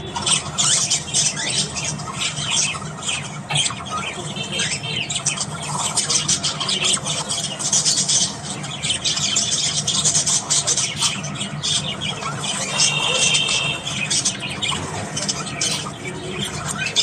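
Budgerigars chirping, squawking and warbling in a continuous, busy chatter.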